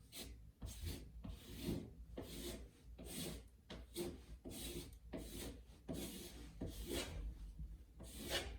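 A hand tool scraping across a drywall surface in repeated strokes, about one and a half a second, each a short rasping rub.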